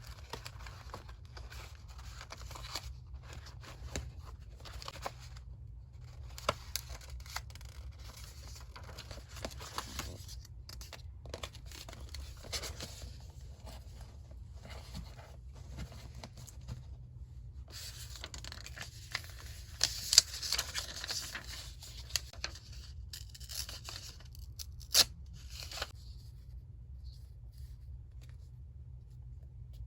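Close-up paper sounds: sheets being handled, rustled and torn, with scattered sharp snaps and clicks, busiest about two-thirds of the way through and quietening in the last few seconds.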